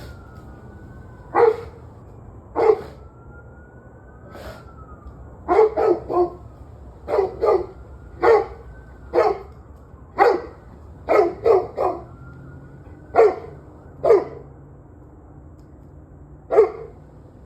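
A dog barking repeatedly at irregular intervals, about sixteen barks in all, some single and some in quick runs of two or three.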